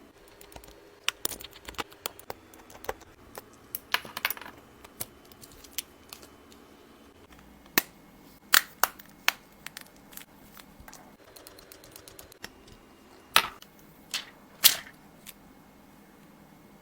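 Irregular sharp clicks and taps of small hard objects, tools and phone parts handled during an iPhone repair, the loudest a few strikes about halfway and near the end, over a faint steady hum.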